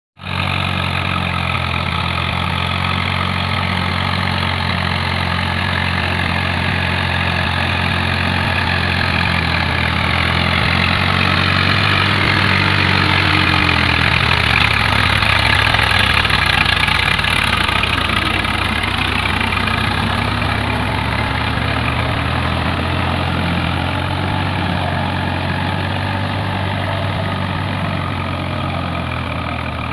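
Tractor's diesel engine running steadily, its level building toward the middle and easing off near the end.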